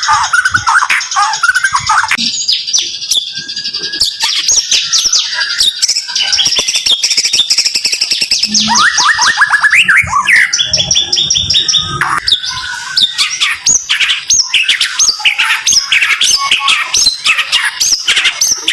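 White-rumped shama (murai batu) singing a dense, fast run of sharp repeated notes, trills and sweeping whistles with hardly a pause: the rapid-fire 'tembakan' song.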